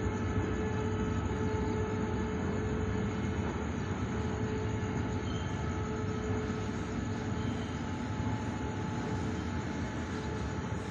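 Steady rumble of a container freight train, with a constant hum running through it.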